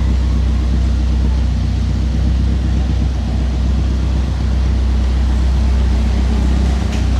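Car engine idling steadily: an even, low hum.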